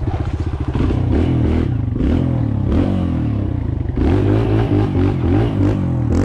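Kawasaki KLX140L dirt bike's single-cylinder four-stroke engine running under way, its revs climbing and dropping several times as it is throttled.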